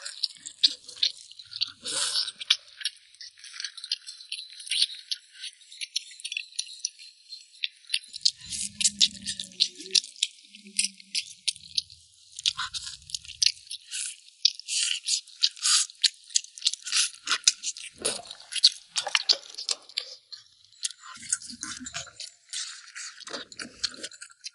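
Close-up eating: chewing and gnawing braised lamb ribs, a dense uneven run of small wet clicks and crunches.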